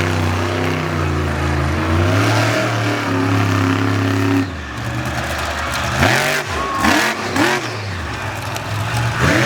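Monster truck engine held at high revs for about four seconds, then dropping off and revving up and down in several quick blips.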